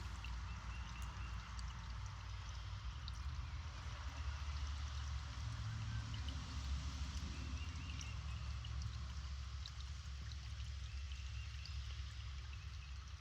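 Small creek running steadily over stones, with faint, brief bird calls in the background.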